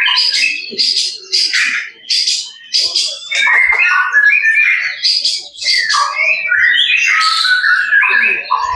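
White-rumped shama (murai batu) singing a varied, loud song. A quick series of sharp repeated notes comes first, then rapid whistled and warbling phrases.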